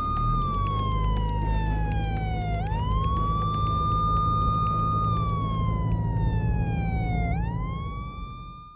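Police siren wailing in slow sweeps: the pitch holds high, slides down over about two seconds, then swoops back up, twice over, and cuts off abruptly at the end. A steady low vehicle rumble runs underneath.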